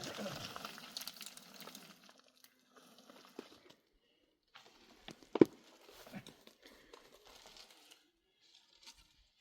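Rustling and crinkling handling noises come in two spells, with a single sharp knock about five seconds in.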